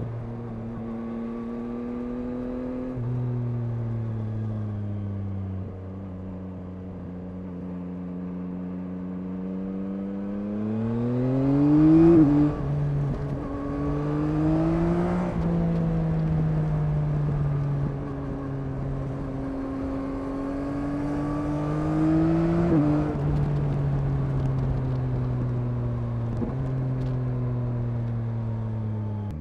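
Yamaha MT-09's three-cylinder engine under way. It runs steadily, then its revs climb three times, each climb ending in a sudden drop in pitch, loudest about twelve seconds in.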